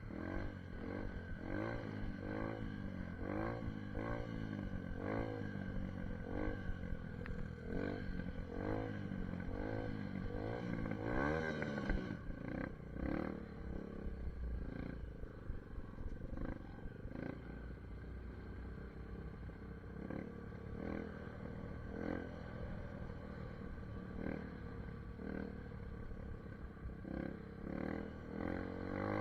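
SSR 150 pit bike's small single-cylinder four-stroke engine being ridden. For about the first twelve seconds the revs rise and fall over and over as the throttle opens and closes. Then it runs steadier, with revs climbing again near the end.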